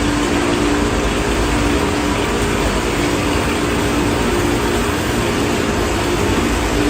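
Steady, loud mechanical running noise with a low hum.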